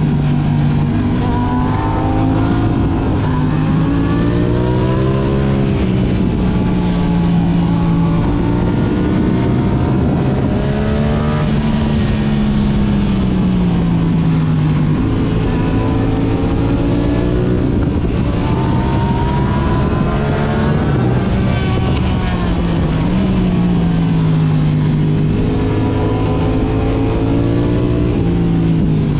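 Yamaha R6 inline-four engine through an Akrapovic exhaust, revving up and easing off again and again, its pitch climbing and dropping as the bike accelerates and slows, over steady wind and road noise.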